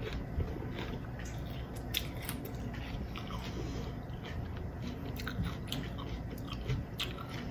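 A person chewing a mouthful of Takis rolled tortilla chips with jalapeño pepper and cream cheese, with irregular crisp crunches.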